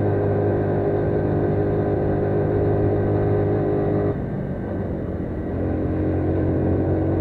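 AKT CR5 180's single-cylinder engine pulling steadily under load up a steep hill. About four seconds in, the note drops away and goes rough for about a second and a half, as for a shift up a gear, then comes back steady at a slightly lower pitch.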